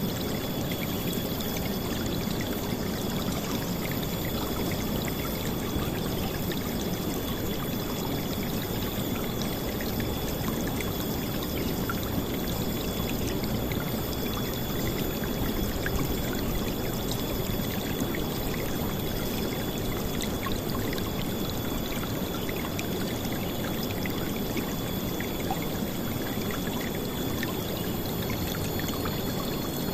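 River water flowing and splashing in a steady, loud rush, deepest in the low range, with no letup.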